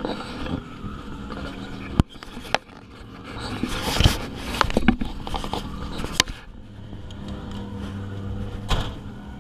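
A drift car's engine runs steadily inside the roll-caged cabin. Over it come sharp knocks and scraping from the action camera being handled: single knocks about two seconds in, a cluster of them between four and six seconds in, and one more near the end.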